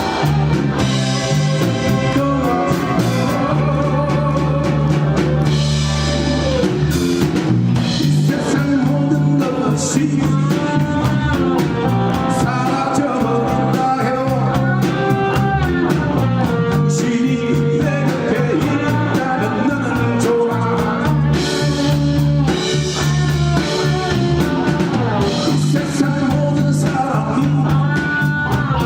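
A live rock band plays a song: a singer's voice carries the melody over guitar, a steady bass line and a drum kit.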